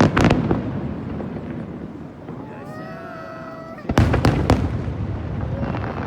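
Aerial firework shells bursting: a cluster of bangs right at the start, then a second, louder cluster about four seconds in, followed by scattered crackling.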